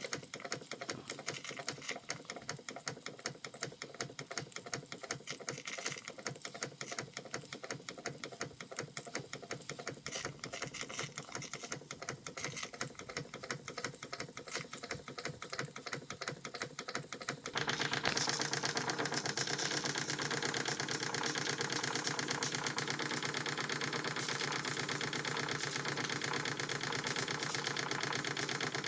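Model marine steam engine running with a rapid, even mechanical clatter; about eighteen seconds in it turns louder and busier.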